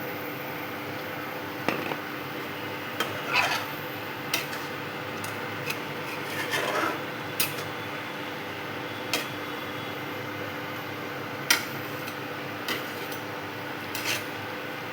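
A metal spoon stirring chicken curry in a cooking pan, with about a dozen sharp clinks against the pan and a few short scrapes, over a steady hiss.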